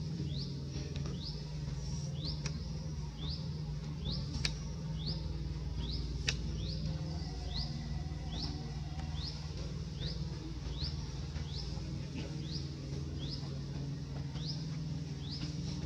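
A bird calling over and over with short, high chirps that rise in pitch, about one and a half a second, over a steady low hum. Two sharp clicks come about four and a half and six seconds in.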